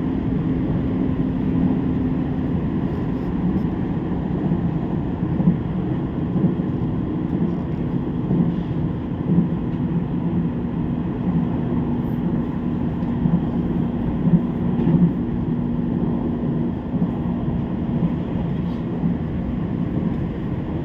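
Train noise: a steady rumble with a constant low hum, unchanging throughout.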